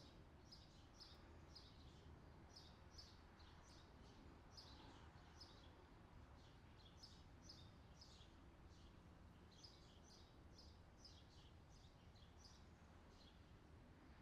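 Faint outdoor summer ambience: birds chirping, many short high chirps one after another, over a low steady background hiss.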